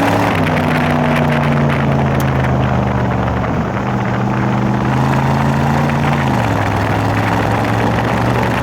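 1974 Ford F-100's 390 FE V8 running through dual glass-pack mufflers, a steady low exhaust note. The engine pitch steps down just after the start, dips briefly midway, and drops again near the end.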